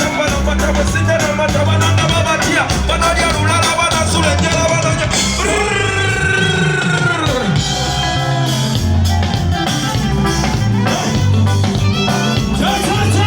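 Band music with singing, played loud over a PA during a sound check: drums and bass keep a steady beat, and a long held sung note falls in pitch about six seconds in.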